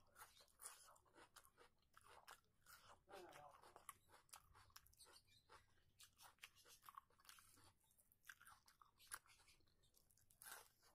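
Faint close-up eating sounds: a person chewing and crunching rice and crisp fried fritters, with many short, irregular wet mouth clicks and smacks.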